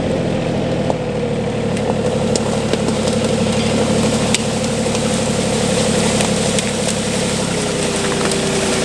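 Compact tractor engine running steadily, with a steady whine that drops slightly in pitch near the end.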